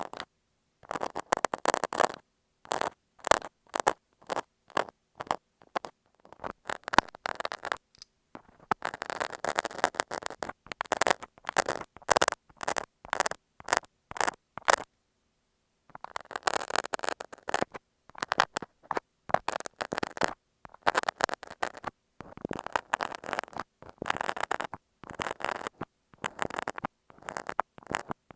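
A utility knife (cutter) scraping and scratching on masking tape over an earphone microphone, very close. It comes in short scratchy strokes and runs with brief pauses between them, and a longer pause about halfway through.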